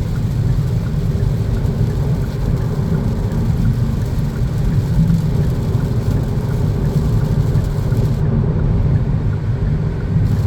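Steady low drone of the Kia Niro hybrid's engine held at high revs, with road noise, heard from inside the car while driving. The transmission is stuck in 5th gear and not shifting up.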